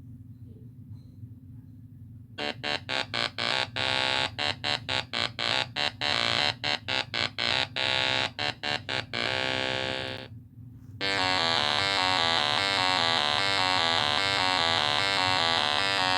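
Electronic synthesizer music over a low steady drone: a run of quick, short repeated notes, then a held note. After a brief break, a long passage of rapidly alternating tones follows.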